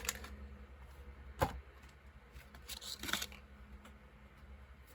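A promo card and its packaging being handled and pulled from a tin: a sharp click about a second and a half in, then a brief rustle around three seconds.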